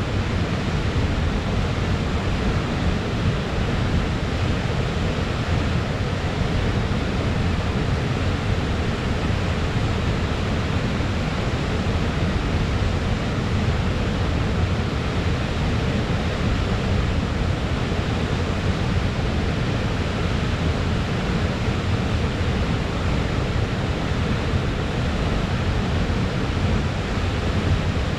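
A waterfall's steady noise of falling and splashing water, an even rush, heaviest in the low end, that holds unchanged throughout.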